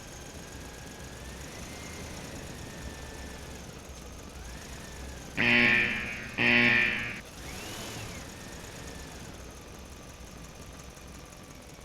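Two loud horn-like honks about a second apart, each a steady pitch that fades after a sharp start. Under them runs a steady low engine-like hum with faint whines that rise and fall.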